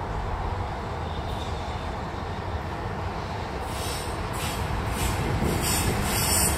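EF65 electric locomotive and a railway crane car rolling past at slow speed: a steady low rumble that grows louder, with a run of sharp high-pitched clatters from the wheels starting about three and a half seconds in.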